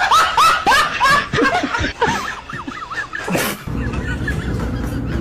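A rapid run of short, high-pitched laughs. About three and a half seconds in, it cuts off abruptly to a steady low background rumble.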